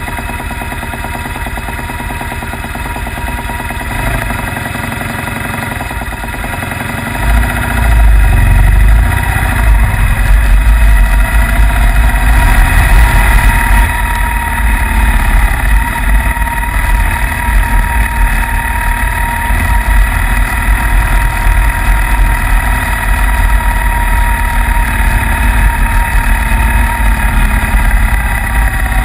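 Motorcycle sidecar outfits running along a snowy road, with the engine heard from a rig on the move. About seven seconds in the sound grows louder, with a heavy low rumble.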